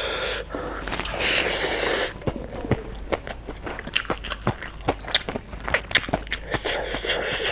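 Close-miked chewing of a handful of chicken biryani: a short breathy rush about a second in, then quick, irregular wet mouth clicks and smacks.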